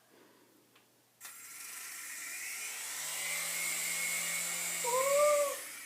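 Air Hogs toy remote-control helicopter's small electric motor and rotors spinning up with a high whine, starting about a second in and growing louder as it lifts off and hovers. Near the end a short rising-then-falling tone rides over the whine.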